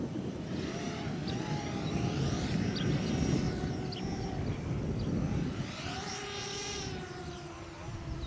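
Radio-controlled model aeroplane engine droning in flight, its pitch wavering and dipping then rising again as the plane passes, over a heavy rumble of wind on the microphone. A few short high chirps come and go.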